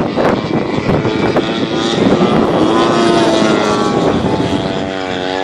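Desert Aircraft DA-120 twin-cylinder two-stroke gas engine and propeller of a 35% scale Extra 300 RC plane in a flyby: the engine note arches in pitch and then drops and fades near the end as the plane passes.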